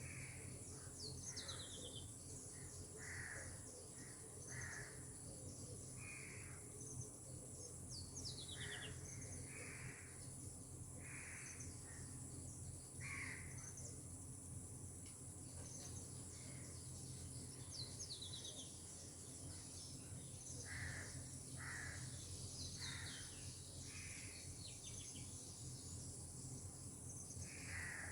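Several birds calling: short calls every second or two and a few quick, falling twittered phrases, over a steady high insect drone and a low steady rumble.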